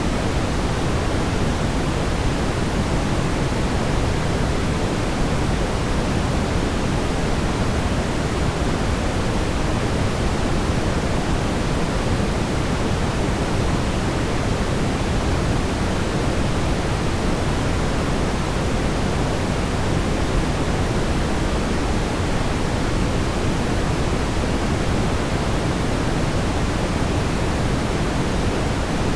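Steady brown noise: an even, unchanging rumbling hiss, heaviest in the low end and tapering off toward the highs.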